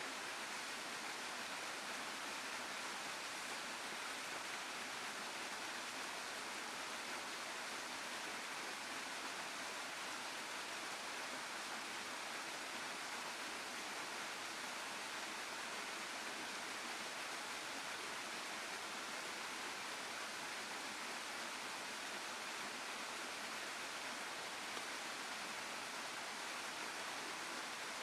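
A waterfall running, a steady even rush of water that does not change.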